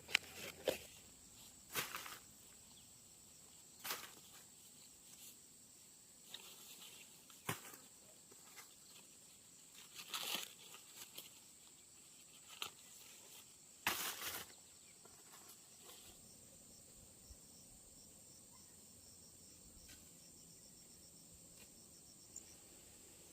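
Faint, scattered rustling and crackling, as of dry material being handled, most of it in the first two thirds. Under it, insects chirr steadily at a high pitch.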